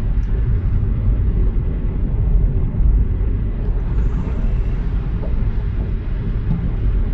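Steady low rumble of a car driving, heard from inside the cabin: engine and road noise with no sudden events.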